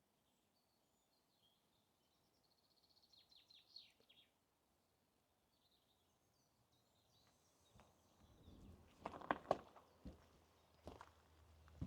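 Faint forest ambience. About three seconds in, a small bird sings a short trill of rapid high notes that falls in pitch. From about eight seconds in come a few footsteps on the forest path, the loudest sounds.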